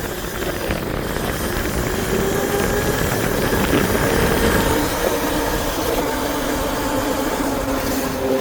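Electric bike motor whining while riding, a steady hum of several tones that slowly drift and sink in pitch near the end as speed changes, over wind rumble on the microphone.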